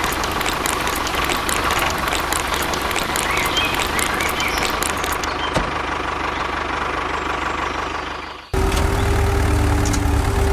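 Steady engine-like running noise with fine ticking. About eight and a half seconds in it cuts off abruptly into a different running sound with a low rumble and a steady hum.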